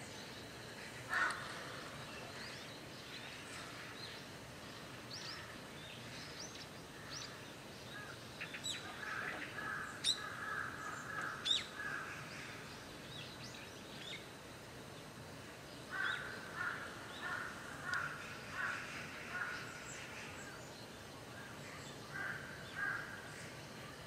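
Wild birds calling: runs of repeated calls at about one and a half a second, one in the middle and another a few seconds later, with a shorter run near the end, over scattered thin high chirps and a steady outdoor background hiss.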